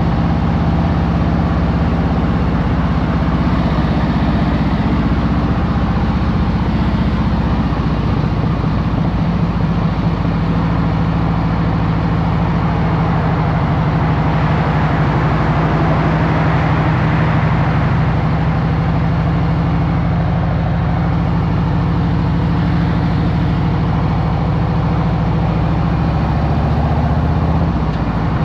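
Harley-Davidson Road Glide Special's Milwaukee-Eight V-twin, with a stage one upgrade, running at a steady, unchanging engine speed.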